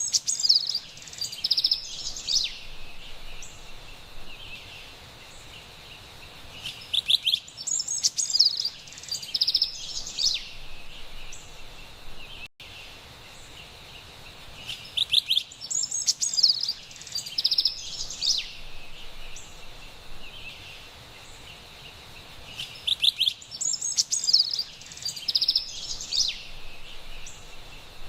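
Carolina wren singing: four bursts of rapid, high, ringing notes, each lasting two to three seconds and coming about every eight seconds, over a steady faint high hiss. There is a momentary dropout in the sound near the middle.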